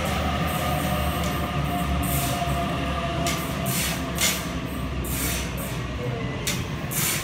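A Sydney Trains double-deck electric train rolling past along the platform: a steady low rumble with irregular short, hissing clatters.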